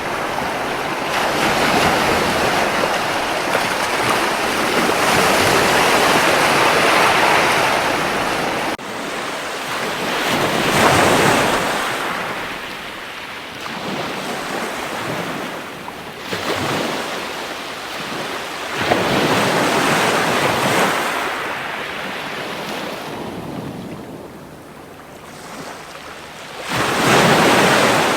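Ocean waves breaking and washing up a beach, swelling and fading every few seconds, with a quieter lull a few seconds before the end and a fresh wave building near the end.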